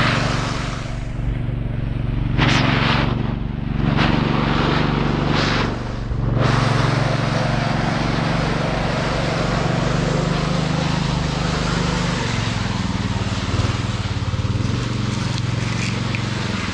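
Diesel engine of road-construction machinery running steadily, with a few short bursts of rushing noise in the first few seconds.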